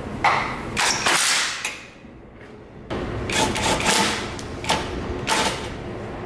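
Auto body shop work sounds: a steady machine hum with several short bursts of noise and knocks. The hum drops away about two seconds in and returns about a second later.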